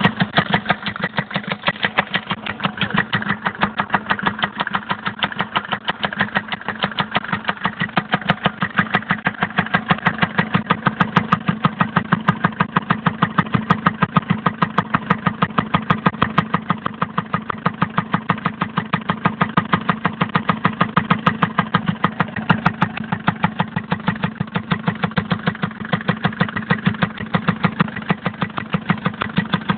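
Mercedes-Benz OM601 four-cylinder diesel engine idling steadily, with a fast, even knock that keeps time with the engine. The knock is the fault being shown, its cause not given.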